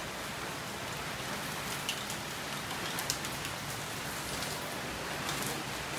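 Heavy rain falling steadily, an even hiss with a few sharper drop taps here and there.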